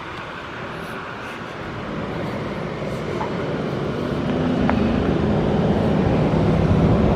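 A vehicle engine running and growing steadily louder as it approaches, its low steady note coming through clearly in the second half.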